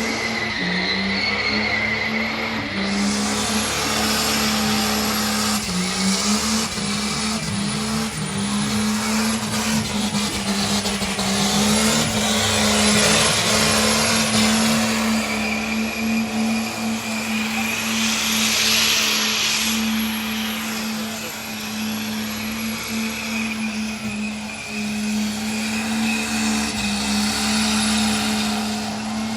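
A pickup truck doing a burnout: its engine is held at high revs at a nearly steady pitch with brief dips, while spinning tyres hiss loudly, swelling through the middle and fading.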